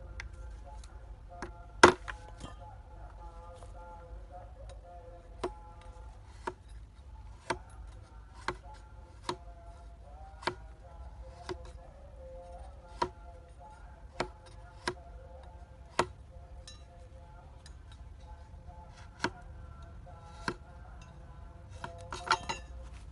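Sharp knocks of a blade chopping wood or bamboo, at irregular intervals of about half a second to a second and a half. The loudest strike comes about two seconds in, and a quick cluster of strikes comes near the end.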